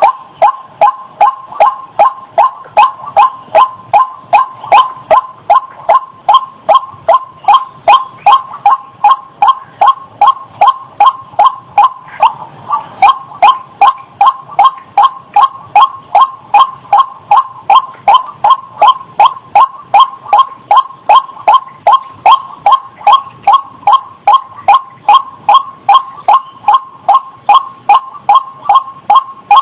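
White-breasted waterhen (ruak-ruak) calling: one call note repeated over and over at about two and a half calls a second, with a brief break about twelve seconds in.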